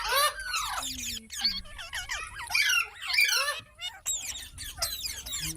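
Several pet parrots chattering and squawking over one another, a dense run of quick squeaky calls that sweep up and down in pitch, with a brief lull about three and a half seconds in.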